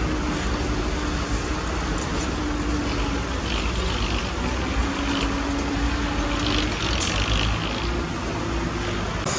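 Heavy earthmoving machinery engine running steadily, a low rumble with a faint held hum that shifts slightly in pitch.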